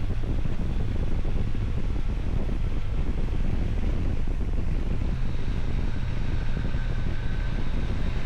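Wind buffeting the microphone over a steady, low engine rumble, with a faint thin whine coming in about five seconds in.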